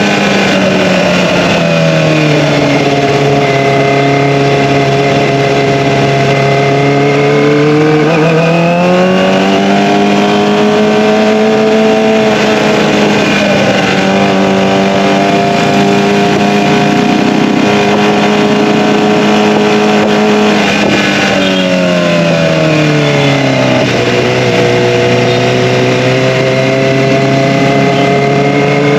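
Kawasaki ZX-25R's inline-four through an Akrapovic Evolution exhaust, running steadily under way. Its pitch drops about a second in, holds, rises again a third of the way through, then falls once more about two-thirds in and settles.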